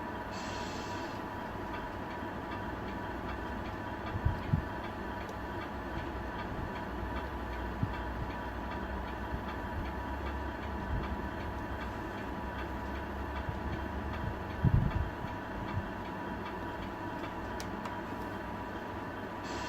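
Tamiya radio-controlled truck running steadily with a constant motor and gear whine and a low rumble. There are a few short knocks around four seconds in and again around fifteen seconds.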